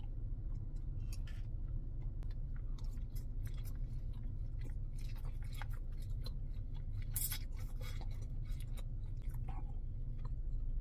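A man chewing a mouthful of lo mein noodles up close, with many small wet mouth clicks, over a steady low hum.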